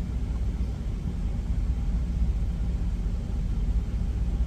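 Steady low rumble of a truck's idling engine, heard inside the cab.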